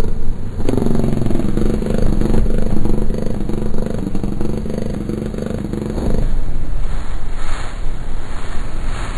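Loud droning noise-music soundtrack: a dense low rumble carrying a steady held tone from about a second in until about six seconds, then rougher noise that swells and pulses.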